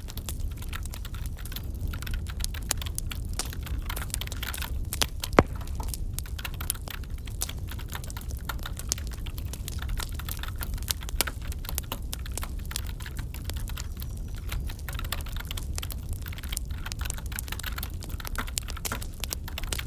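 Continuous computer-keyboard typing over a crackling wood fire in a fireplace, with a steady low rumble beneath. One sharp, loud pop from the fire about five seconds in.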